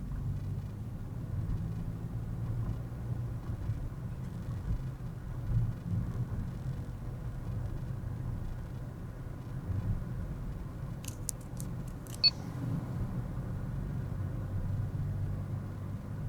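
Car driving, heard from inside the cabin: a steady low rumble of engine and road noise. About two-thirds of the way through comes a short run of sharp clicks, the last one loudest, with a brief high ping.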